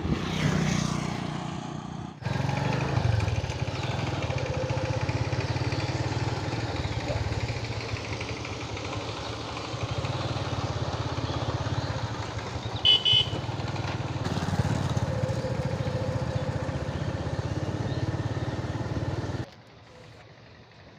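Motor vehicle engine running steadily, with a short double beep of a horn about two-thirds of the way through. The engine sound cuts off abruptly near the end, leaving a much quieter background.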